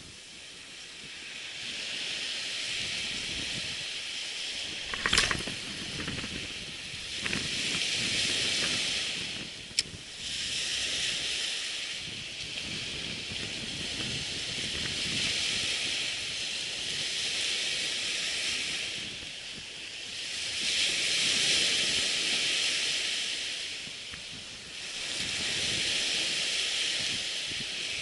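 Surf on the beach: a hiss that swells and fades every few seconds as waves break and wash back. A sharp knock comes about five seconds in and a brief click near ten seconds.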